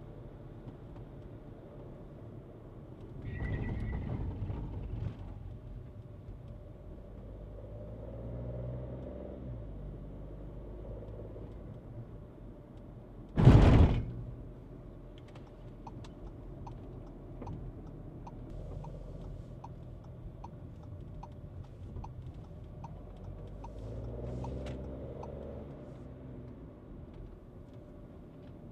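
Skoda Kushaq heard from inside the cabin while driving, with steady engine and road noise and the engine picking up twice. A single loud thump comes about halfway through. It is followed by a light, regular ticking at about one and a half ticks a second for several seconds.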